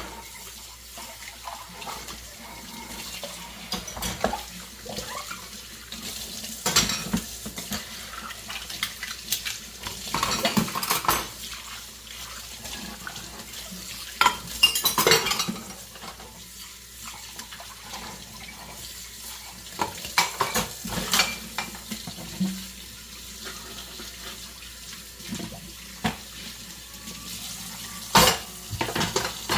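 Dishes being washed by hand in a kitchen sink: a running tap with scattered clinks and knocks of plates, pots and cutlery.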